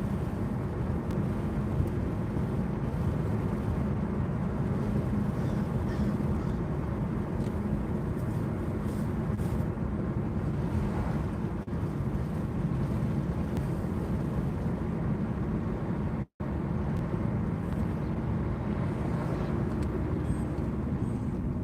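A steady low vehicle rumble with no rise or fall, which cuts out for a split second about sixteen seconds in.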